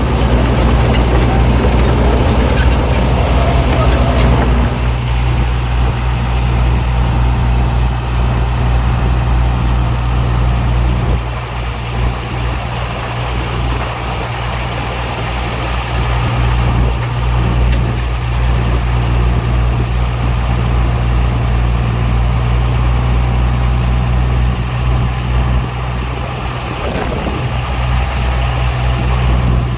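Heavy diesel earthmoving machinery running steadily with a deep engine drone, with clattering in the first few seconds.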